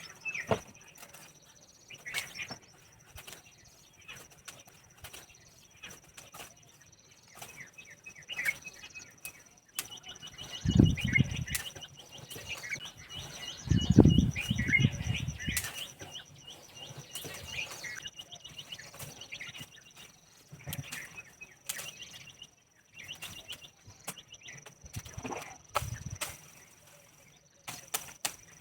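Branches of an oleander shrub being cut back by hand: scattered sharp cutting clicks and rustling of foliage, with two heavier low thumps about eleven and fourteen seconds in. Birds chirp and a steady high-pitched whine runs underneath.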